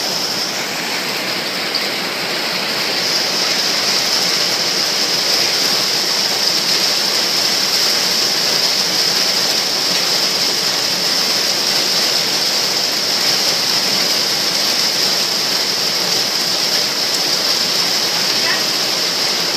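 Rainwater rushing and splashing in a steady, unbroken hiss, growing a little louder about three seconds in.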